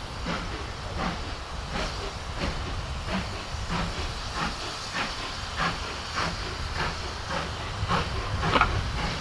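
Steam locomotive working steadily, its exhaust chuffing in an even beat of about three chuffs every two seconds over a low rumble.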